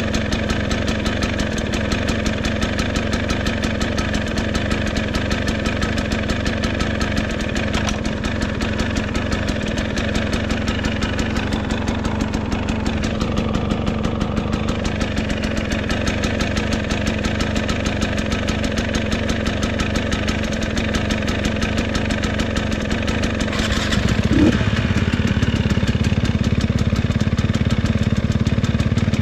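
A motor vehicle's engine running steadily under way. About three-quarters of the way through, a short rising sweep is heard and the engine gets louder and stays louder.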